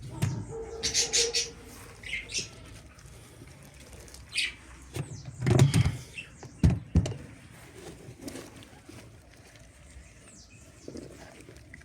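Small cage birds chirping in short, scattered calls, with a rustle and a couple of sharp knocks a little past the middle.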